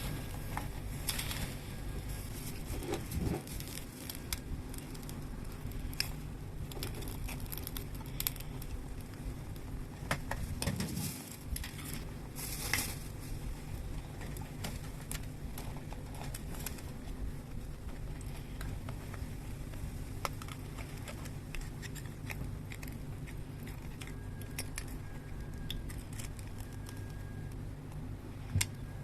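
Scattered light clicks and clinks of small objects being handled, over a steady low hum.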